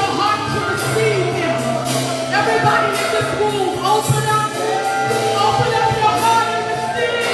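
Live gospel worship music: a singer's voice gliding up and down over a held low note, with regular percussion hits.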